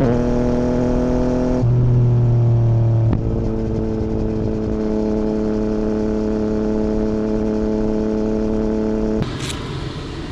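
2017 Yamaha MT-09's 847 cc three-cylinder engine running through an Akrapovic Racing Line full exhaust with no dB killer, heard from the moving motorcycle. The note steps down with a gear change at the start and changes again twice in the first three seconds. It then holds a steady cruising note until the throttle closes about nine seconds in and the exhaust drops away.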